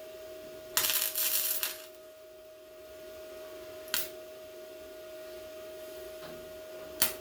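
A MIG welder laying a short tack on sheet metal, crackling for about a second over a steady hum, followed by two sharp clicks.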